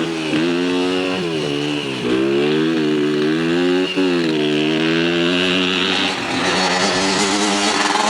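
Dirt bike engine running under throttle, its pitch climbing and dropping several times, with sharp dips about two and four seconds in.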